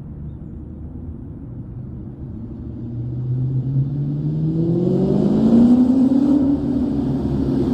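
2003 SVT Cobra's supercharged 4.6-litre V8 through a Bassani exhaust, rumbling low and then climbing steadily in revs for a few seconds before easing off a little near the end. A faint higher whine joins as the revs peak.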